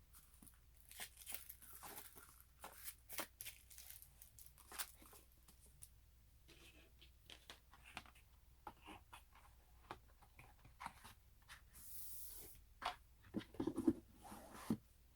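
Paper and cardboard merchandise being handled: a run of light rustles, taps and clicks, with a brief swish about twelve seconds in and a few louder knocks near the end.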